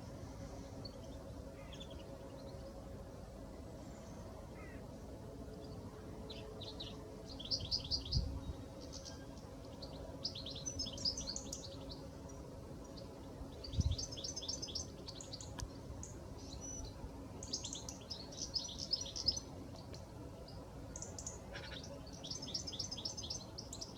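Small songbirds chirping in quick high trilling bursts, repeated on and off from about a third of the way in. Two dull low thumps, about six seconds apart, and a faint steady hum sit underneath.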